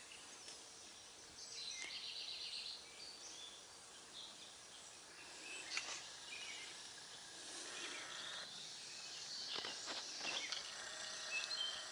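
Faint outdoor ambience with scattered high bird chirps and short trills, and a few soft clicks.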